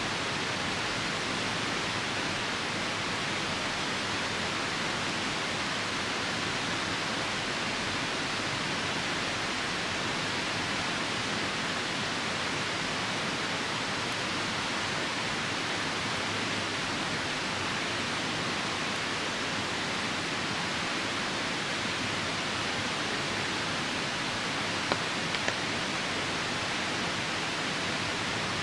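Steady rushing of a nearby river mixed with falling rain, an even hiss that never lets up. Near the end a couple of brief pops from the wood campfire stand out.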